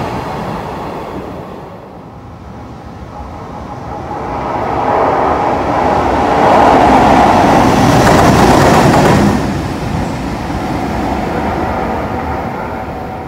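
Freight train running through a station: the rumble of a container train fades, then a locomotive-hauled freight train comes through, its wheels rumbling over the rails and rail joints, loudest from about six to nine seconds in before dropping away.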